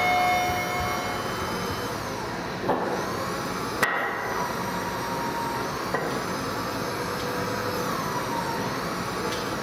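Three sharp knocks, spaced a second or two apart, over steady background noise with a few held tones.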